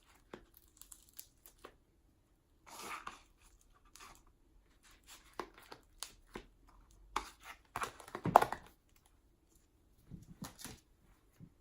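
Slime being pulled out of a plastic tub by hand and added to a large mix: irregular sticky tearing and crackling, with light clicks of plastic. The loudest burst comes about eight seconds in.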